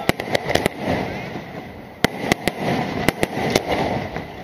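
Aerial fireworks shells bursting overhead: a quick run of sharp bangs in the first second, a short lull, then another run of bangs between about two and three and a half seconds in, over a continuous rumble of crackle and echo.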